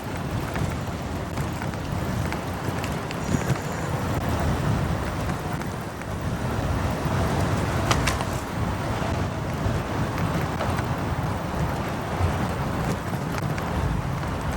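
Road and traffic noise from a motorcycle riding through city streets: a steady low rumble of engine, tyres and air rush, with passing cars around it.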